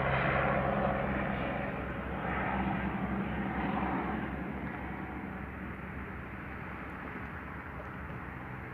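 Helicopter flying past, its rotor and engine noise gradually fading as it moves away.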